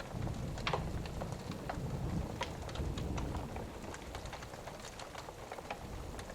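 Thunderstorm and fireside ambience: steady rain with a low roll of distant thunder that swells early and fades after a few seconds. Scattered sharp pops and crackles from a wood fire run throughout.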